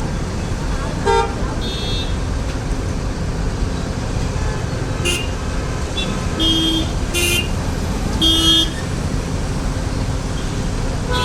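Road traffic running steadily, with several short vehicle horn toots scattered through it.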